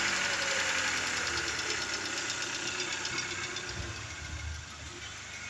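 2015 Kia Soul's 2.0-litre GDI four-cylinder engine idling steadily.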